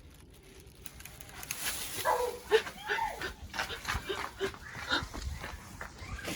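A dog barking and whining, a quick run of short barks and whines that starts about a second and a half in and keeps going.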